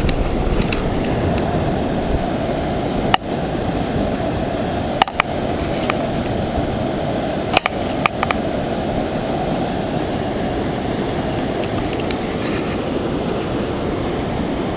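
Floodwater pouring over open floodway gates: a loud, steady, low rush of water. A few brief clicks sound over it a few seconds in.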